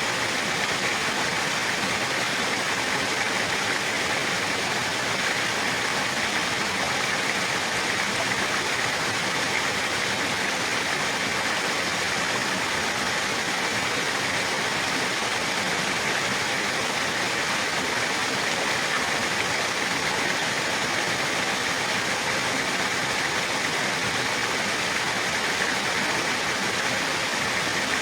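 Flowing water rushing steadily, an even hiss that never changes in level.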